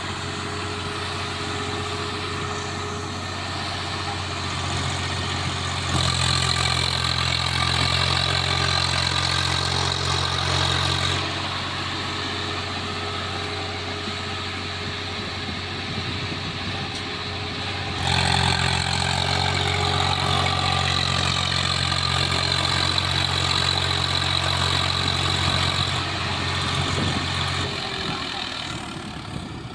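A tractor's diesel engine running steadily. It gets louder about six seconds in, settles back a few seconds later, gets louder again past the middle, and dies away near the end.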